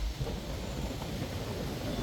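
Steady rain and wind noise, with a low traffic rumble beneath.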